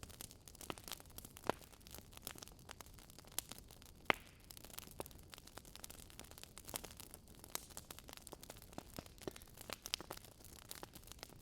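Burning wood logs crackling: irregular sharp pops and snaps over a soft hiss, the sharpest pop about four seconds in.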